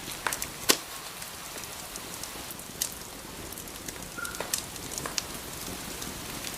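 Wood fire crackling: scattered sharp pops and snaps over a steady soft hiss, with the loudest pops in the first second.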